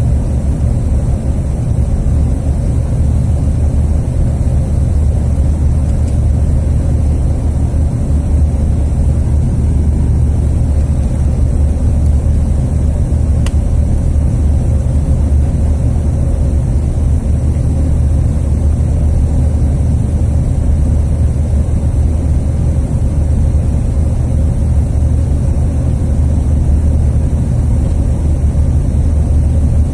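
Steady cabin noise of a Bombardier CRJ1000 regional jet in flight before landing: a loud, even, deep drone of its rear-mounted turbofan engines and the airflow, with a faint steady hum above it.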